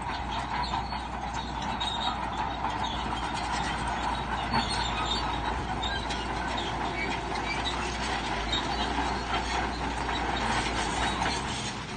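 Crawler bulldozer working: the engine runs steadily under a continuous metallic squeal and clatter from its steel tracks.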